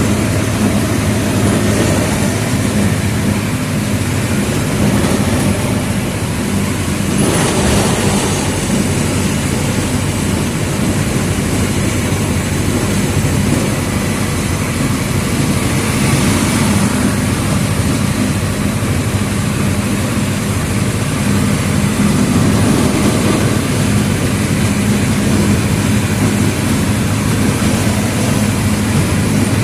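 Mercedes-Benz OF 1722M city bus engine running at a steady pitch, heard from on board. A short hiss rises briefly about seven seconds in.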